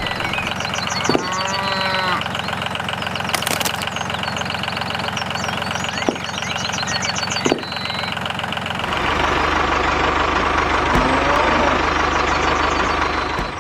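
Tractor engine idling steadily with a rhythmic chugging. A short call sounds over it about a second in, and a deeper hum joins about nine seconds in.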